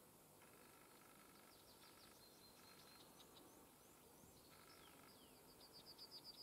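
Faint birdsong: scattered short high chirps, then near the end a quick trill of repeated high notes, about eight a second.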